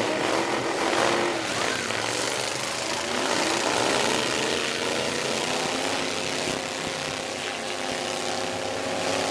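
Demolition derby truck engines revving and running together, their pitch rising and falling over a steady wash of engine and exhaust noise.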